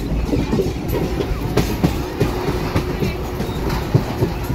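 Mumbai non-AC suburban local train running, heard from inside a moving carriage: a steady rumble with irregular clattering and knocking of wheels and coach.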